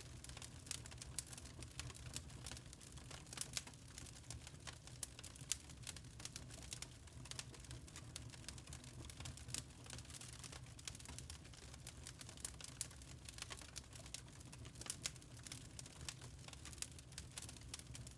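Burning charcoal crackling: many small, sharp, irregular pops and ticks over a low steady rumble.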